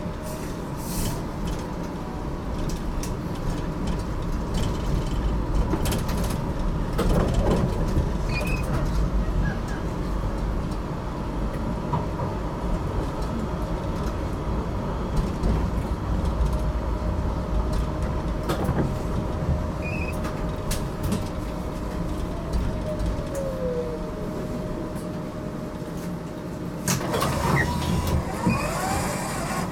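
GTL8 tram running on its rails, heard from on board: a steady running rumble with scattered clicks. About three-quarters of the way through, a motor tone falls in pitch as the tram slows. Near the end comes a louder spell with high squealing.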